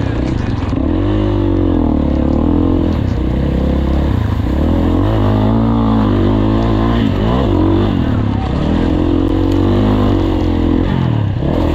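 Motocross bike engine revving hard, its pitch climbing and dropping again and again as the throttle opens and shuts through a muddy race.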